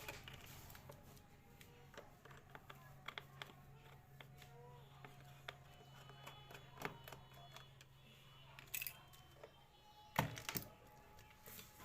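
Scattered small clicks and taps from a plastic MP3 speaker being unscrewed and opened by hand, with one louder sharp click about ten seconds in, over a faint low hum.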